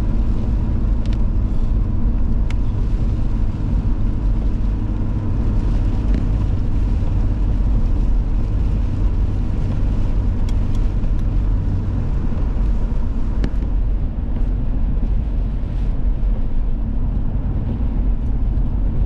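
Car driving on a snowy road, heard from inside the cabin: a steady low rumble of road and engine noise, with a few faint clicks.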